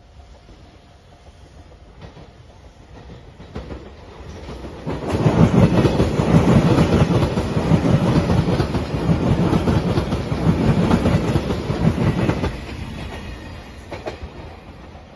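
A JR Shikoku 8000-series electric express train passing close by, its wheels clattering over the rail joints. It builds up over about a second, stays loud for some seven seconds, then fades.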